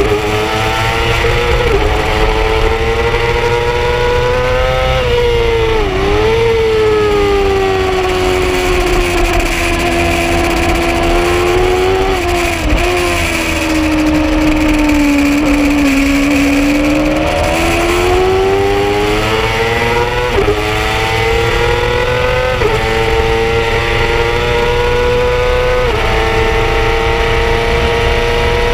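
Yamaha R6 sportbike's inline-four engine at high revs on a racetrack. Its pitch falls slowly through a long slowing stretch to a low point about sixteen seconds in, then climbs again with several quick gear changes near the end, over steady wind rush.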